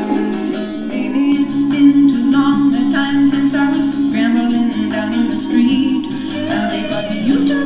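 A folk song with plucked-string accompaniment and some singing, played back through a small mini Bluetooth speaker and recorded in the room.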